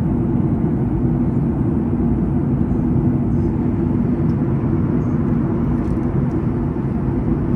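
Steady low rumble of an airliner cabin in flight, with a faint steady hum over the engine and air noise.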